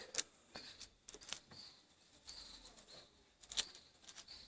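Faint handling noises, a few scattered clicks and rustles, with faint high squeaks in the middle.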